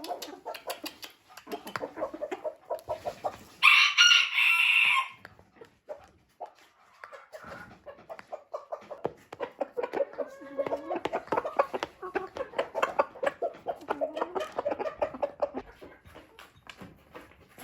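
Chickens clucking and calling steadily, with a rooster crowing once, loudly, about four seconds in.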